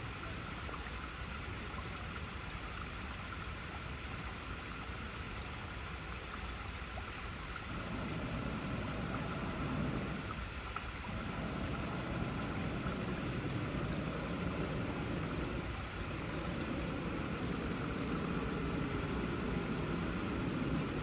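Water rushing steadily over icy rocks in a stream. About eight seconds in, a deeper rumble joins and the sound grows a little louder.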